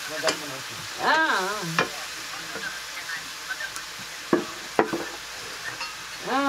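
Chicken sizzling as it is stir-fried in an iron kadhai, with a spatula clicking against the pan a few times. A brief wavering vocal sound about a second in.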